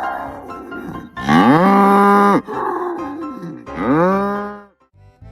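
A cow mooing twice, each long call rising in pitch and then held steady, with quiet music underneath.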